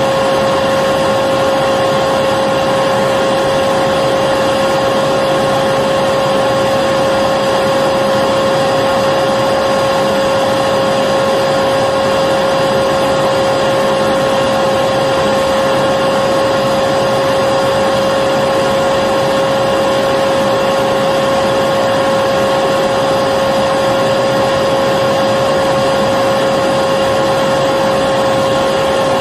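Electric vacuum cleaner running continuously, a steady whine over rushing air with no change in speed.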